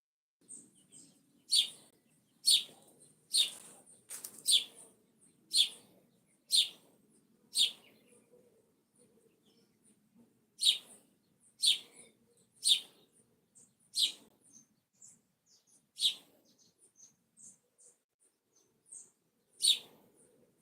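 A bird chirping: sharp, short loud calls about one a second, in two runs with a pause of a few seconds between, and fainter high chirps in the gaps.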